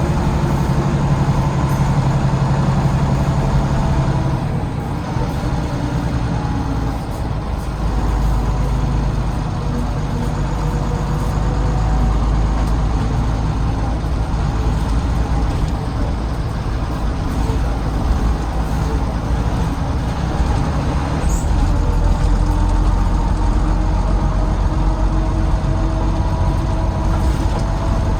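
Volvo D9B diesel engine of a Volvo B9TL double-decker bus running under way, heard inside the cabin from the back seat. The engine eases off around four seconds in and then pulls again with a heavier low rumble, with a thin whining tone above it.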